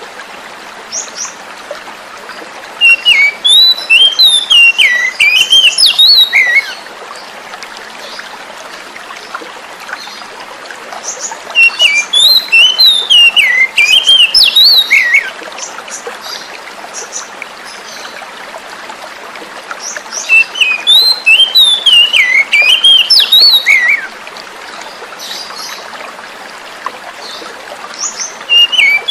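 Oriental magpie-robin singing in bouts of rapid, varied whistled phrases about four seconds long, repeating roughly every eight to nine seconds, over a steady hiss of flowing water.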